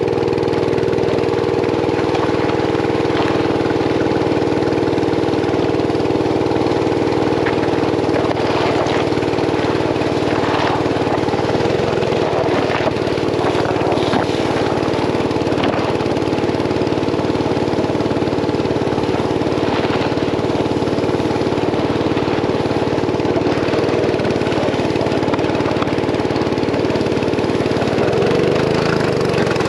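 A mini bike's small engine runs steadily and loudly at an unchanging pitch. A few brief knocks or clatters come through in the middle.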